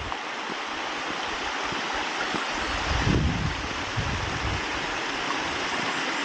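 Mountain valley stream rushing steadily, with a few brief low rumbles of wind on the microphone.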